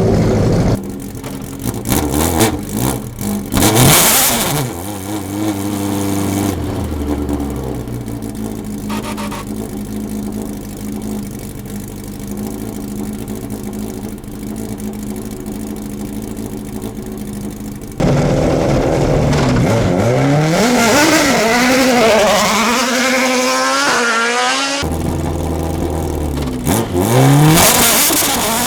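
Racing car engines on a hillclimb course, revving hard as cars accelerate and shift up through the gears. Abrupt changes between quite different engine sounds: a quieter steady stretch in the middle, then a loud run of rising notes, each cut short by a gear change.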